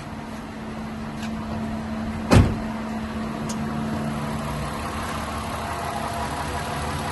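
2012 Ford Escape's 3.0 V6 idling steadily, running again after being started by jiggling the key in a faulty ignition switch. A single sharp thump comes about two and a half seconds in.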